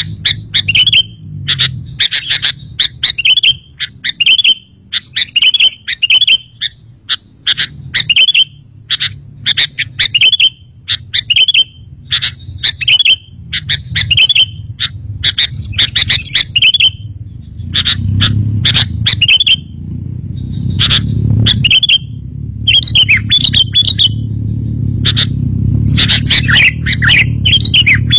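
Sooty-headed bulbul (kutilang) calling over and over, short sharp chirpy phrases about once or twice a second. A low rumble runs underneath and grows stronger in the second half.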